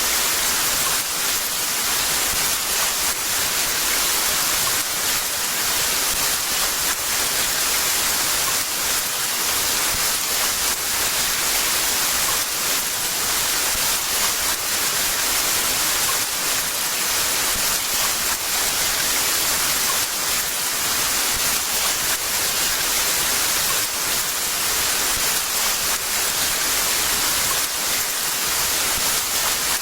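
Heavy rain pouring steadily, a dense, even hiss without let-up.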